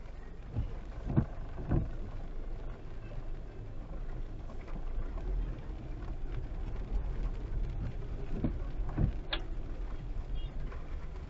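Car on the move, heard as a steady low rumble of road and engine with a few dull thumps, a couple near the start and two more near the end.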